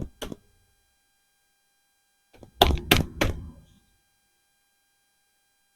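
Two light knocks, then about two and a half seconds in a cluster of three heavier thunks: parts being handled and set down while the scooter's air filter is taken out.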